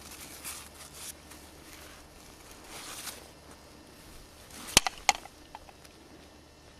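Faint, uneven rustling and crunching, with two sharp knocks in quick succession a little past the middle.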